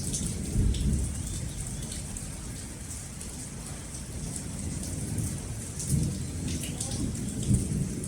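Steady rain pattering, with low rumbles of thunder swelling and fading, strongest just under a second in and again twice near the end.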